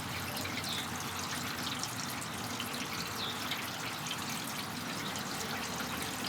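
Slow, steady rain falling with no wind, an even hiss of drops. A faint high chirp comes twice.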